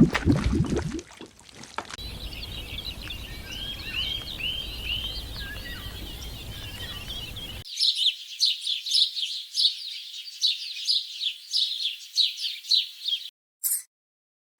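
Birds calling. About a second of loud, lower calls comes first. Then come high chirps and short arched notes over a steady hiss, then a quick run of sharp high chirps several times a second. A few separate chirps close it.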